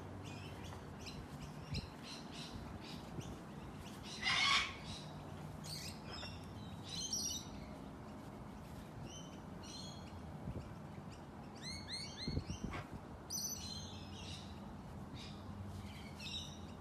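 Birds calling with short chirps scattered throughout, one louder harsh squawk about four seconds in, and a quick run of chirps around twelve seconds in, over a faint steady low hum.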